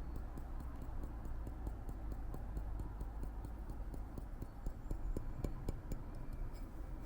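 A series of light, uneven clicks and taps over a steady low rumble, with a cluster of stronger taps near the end.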